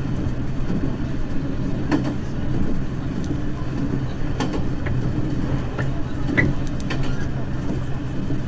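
Diesel railcar running along the track, heard from inside the train: a steady engine drone with scattered, irregular clicks and knocks from the wheels on the rails.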